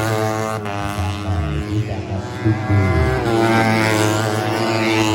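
Racing 150cc four-stroke underbone motorcycle engines running at high revs, their pitch rising and dipping with throttle and gear changes, under background music.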